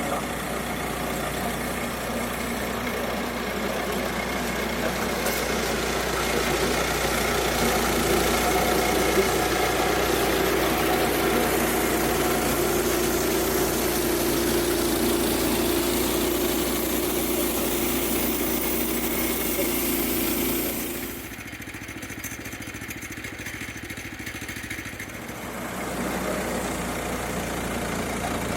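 An engine running steadily. About two-thirds of the way through it drops back to a quieter, duller idle for a few seconds, then picks up again.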